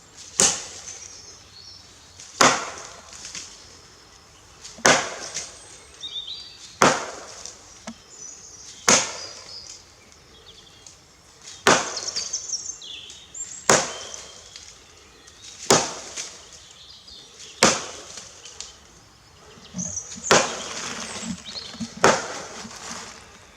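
Axe chopping into wood, with steady, evenly spaced blows about two seconds apart, each a sharp crack with a short ring after it.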